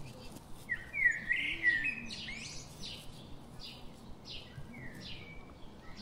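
Songbird singing: a quick run of chirping, rising and falling notes about a second in, followed by a series of short, repeated separate notes.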